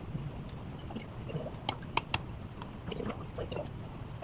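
Scattered sharp snaps and crackles of wood, three of them close together near the middle, over a low steady rumble.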